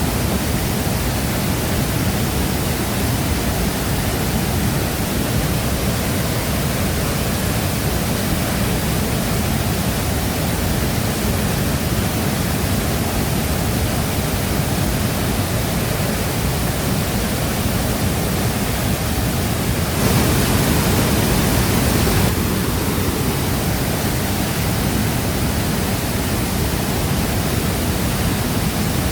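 Shifen Waterfall's steady, dense rush of falling water, with a slightly louder stretch lasting about two seconds some twenty seconds in.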